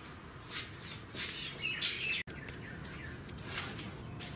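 Small birds chirping in short, high notes throughout, with the sound cutting out for an instant a little past two seconds in.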